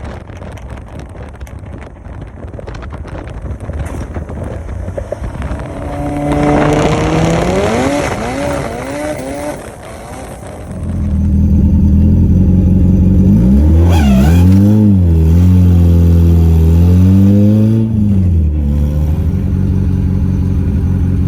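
Turbocharged car engine at full throttle in a race run. After a few seconds of rumbling, the engine note climbs in pitch through the gears, then comes back louder at about eleven seconds, rising and dropping at each shift before easing off near the end.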